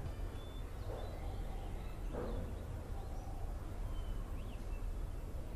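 A few faint, brief bird chirps over a steady low background rumble of ambience.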